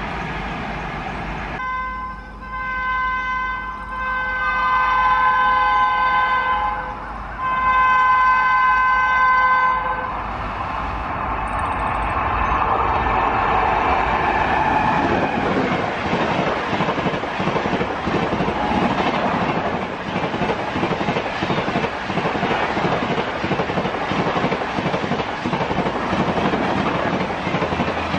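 An Indian Railways electric locomotive's horn sounds three times: one short blast, then two long ones. The express train then rushes past at high speed, a loud, steady rush of wheels clattering over the rail joints.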